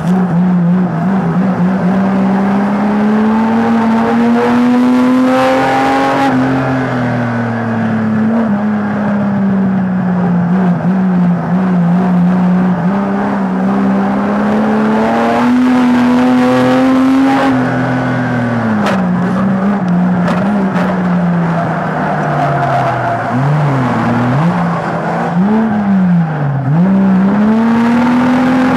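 Banger race car's engine heard from inside the cabin, revving up and falling back again and again as the car accelerates and slows on the track. A few sharp knocks come about two-thirds of the way through.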